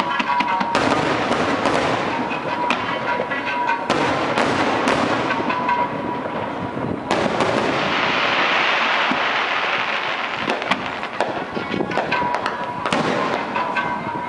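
Fireworks display: aerial shells bursting in a rapid series of bangs, with a dense stretch of continuous crackling about halfway through.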